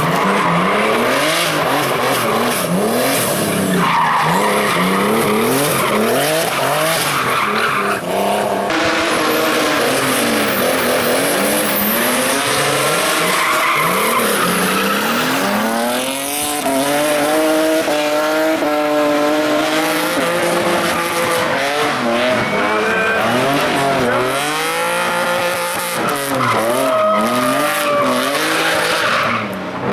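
Hill climb race car engines at full throttle, the pitch climbing and dropping again and again through gear changes, with tyres squealing at times.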